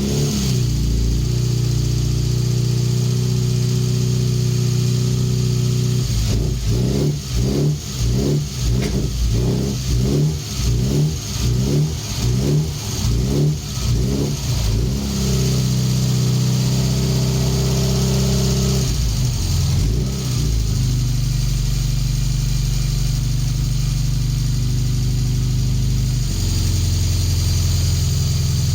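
Classic Mini A-series engine running on a stand out of the car, freshly started after years standing. It runs steadily, with a run of quick throttle blips in the middle that rise and fall in pitch, then settles back to an even idle.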